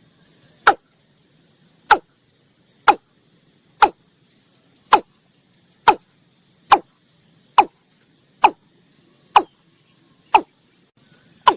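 Watercock calling: a short, hollow note falling in pitch, repeated steadily about once a second, over faint chirring insects.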